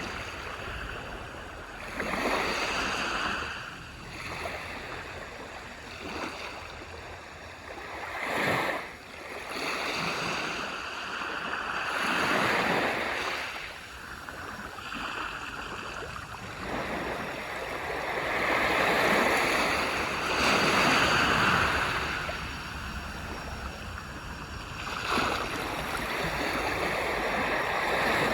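Small waves breaking and washing up on a beach, each one swelling and fading over a few seconds, with a longer, louder wash about two-thirds of the way through.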